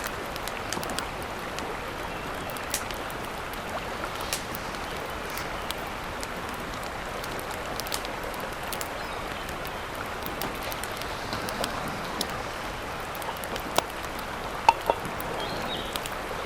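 Steady rushing water with scattered sharp clicks throughout, and a few louder knocks near the end.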